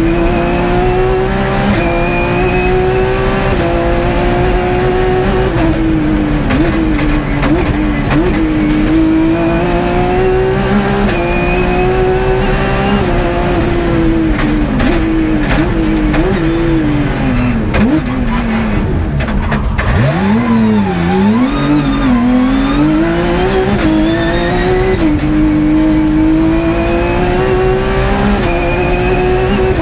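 A Porsche 997 rally car's flat-six engine, heard from inside the cockpit, pulling hard through the gears. Pitch climbs again and again, each run cut short by a quick upshift. About two-thirds in it drops low with a brief burst of downshifts under braking, then climbs through the gears again.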